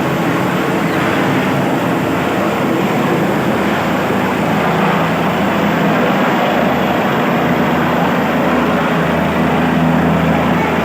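Helicopter's engine and rotor running, a loud steady noise with a constant low drone that grows slightly louder toward the end.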